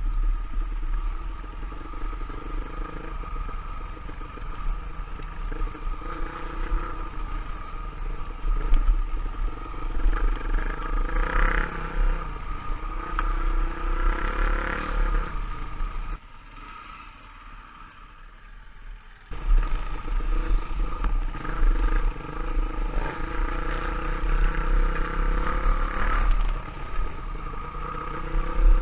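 Enduro motorcycle engine running under the rider, revs rising and falling over rough ground with wind rumble on the microphone and some clatter. Around the middle it drops away to a much quieter stretch for about three seconds, then picks up again.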